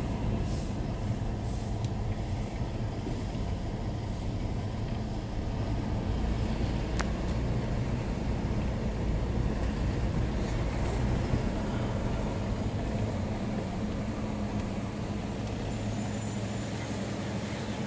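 Engine and tyre noise of a Mitsubishi Pajero heard from inside the cabin, a steady low hum as it drives slowly on a paved lane.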